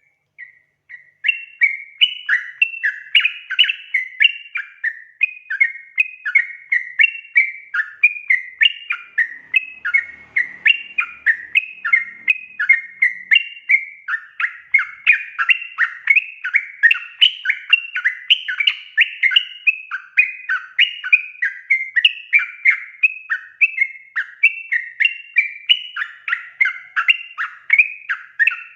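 Yellow-vented bulbul (trucukan) calling: a fast, unbroken chatter of bright repeated notes, about two or three a second, that starts about a second in. It is a recorded call used as a lure to draw bulbuls and set them singing.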